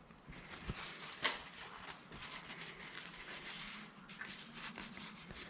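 Faint rustling with a few light clicks and taps from hands working on the engine, the clearest tap a little over a second in.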